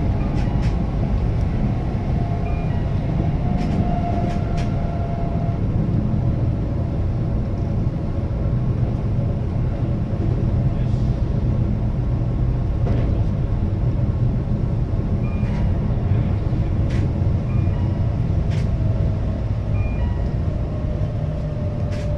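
Keihan limited express train running at speed, heard from inside the car: a steady low rumble of wheels on rail, with scattered sharp clicks and a faint whine that drifts in pitch.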